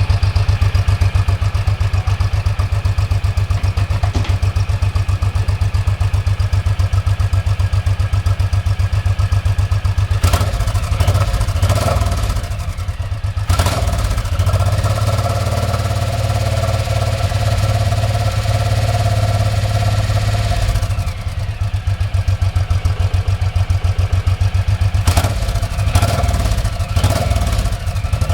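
Suzuki C109R motorcycle's V-twin engine running through its exhaust, a steady low pulsing idle. The engine speed shifts a little around the middle and again later.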